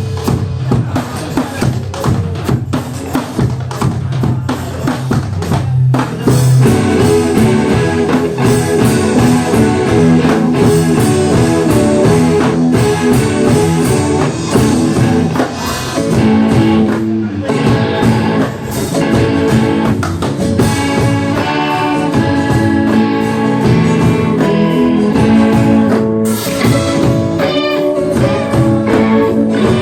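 Live band music: guitars over a drum kit keeping a steady beat.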